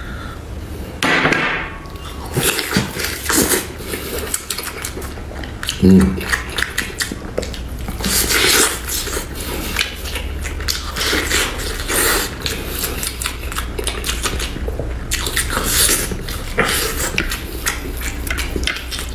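Close-up eating sounds: a man biting, tearing and chewing plain boiled lamb off the bone with his hands, in irregular bouts of wet, crackling mouth noise.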